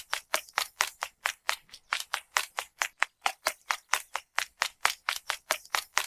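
A steady, even run of sharp clicks, about four a second.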